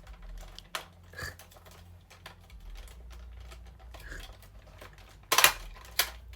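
Small hard-plastic clicks and taps as AAA batteries and a toy's plastic battery compartment are handled, with a louder sharp clatter about five and a half seconds in and another soon after.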